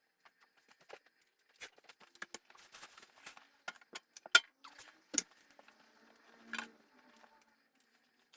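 Household items being handled and moved about: a scattered run of small clicks, clatters and knocks. The sharpest clacks come about four and five seconds in, and a brief squeak follows shortly after.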